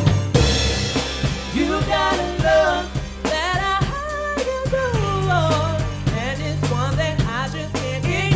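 A band playing a song: drum kit and bass guitar keep a steady beat after a cymbal hit at the top of the phrase, and a lead vocal comes in about two seconds in.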